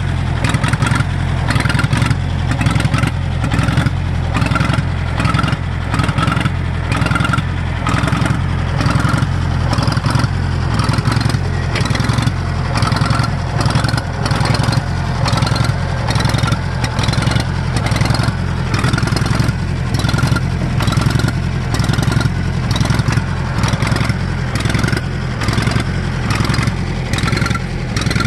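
1964 John Deere 1010 tractor's gasoline engine running steadily after a cold start, with a fast, even firing beat.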